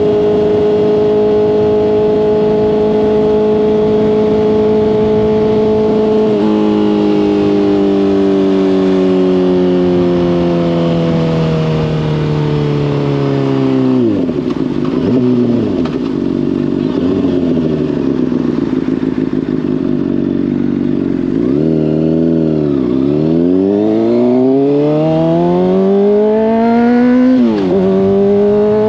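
Honda CBR600RR inline-four sport bike engine through a Hotbodies Stinger slip-on exhaust: it holds a steady cruising note, then the revs fall away gradually to a low rumble for several seconds, then climb again under acceleration, with a brief dip for an upshift near the end before rising once more.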